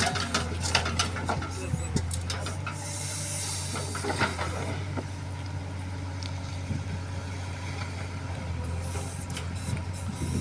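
Heavy diesel engine of a backhoe loader or tractor running steadily, with scattered metallic knocks and clanks in the first few seconds and again around four seconds in, and a short hiss about three seconds in.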